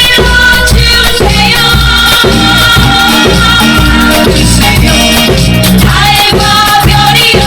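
A drum kit played along to a recorded pop song with a singing voice, with a steady beat.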